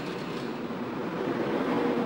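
Electric train running past on the rails, a steady rolling noise that swells a little toward the end.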